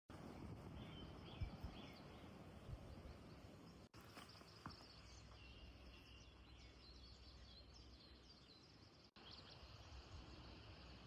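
Faint outdoor forest ambience with small birds chirping now and then, broken by two brief dropouts.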